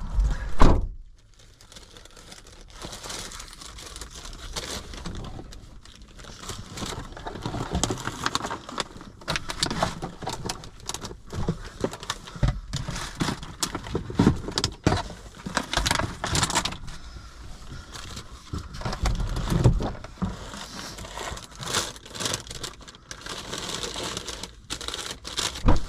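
A heavy thump about half a second in, then a long run of irregular rustling, crinkling and clicking handling noises, like bags and packaging being handled.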